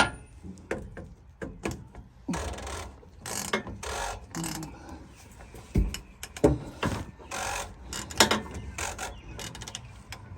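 Ratchet and socket clicking, with irregular clicks, clatter and scraping of tools and parts, as the fuel filter cap on a 6.7L Cummins diesel is worked loose and the filter is taken off. A sharp click comes right at the start.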